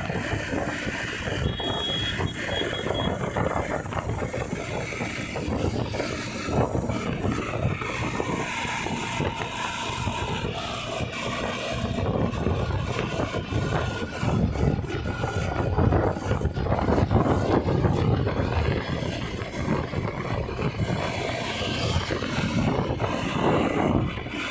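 Massey Ferguson 241 tractor's diesel engine running, a dense mechanical noise whose level rises and falls unevenly.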